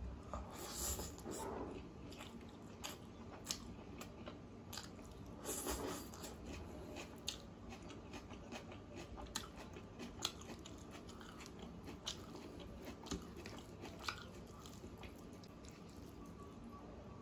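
Close-up mouth sounds of a person eating rice and chicken curry by hand: chewing with many short, scattered clicks, some louder than others.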